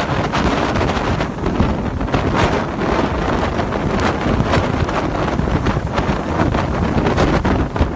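Hurricane-force wind blowing hard across the microphone: a loud, continuous rush of wind noise with frequent short buffeting gusts and crackles.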